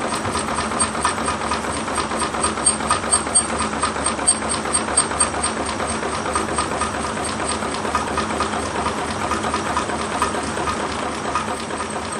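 Model five-cylinder Stirling engine made from tin cans running steadily, its mechanism clattering in a fast, even run of clicks over a hiss.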